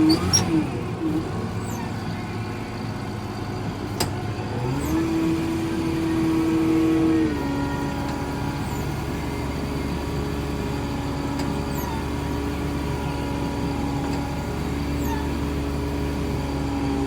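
Diesel loader tractor engine running at high speed on the foot throttle. About 5 seconds in it revs up, holds for a couple of seconds, then drops back to a steady lower speed.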